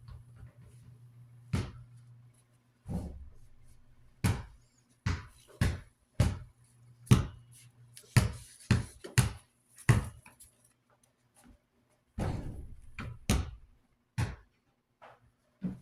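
A string of sharp knocks and clacks from parts of a Galaxy desk fan being handled. A low steady hum from the fan's freshly oiled motor runs under the first ten seconds, then stops.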